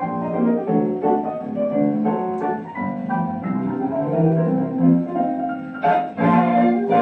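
1929 dance-orchestra recording played from a Columbia 78 rpm shellac disc: an instrumental passage without vocals, with the narrow, top-cut sound of an early record. The band gets louder about six seconds in.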